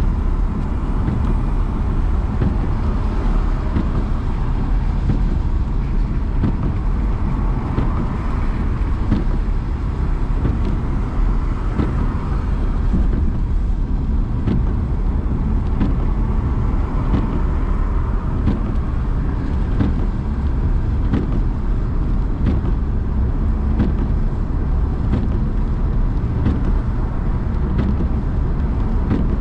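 Car driving: steady engine and road noise, with faint scattered clicks.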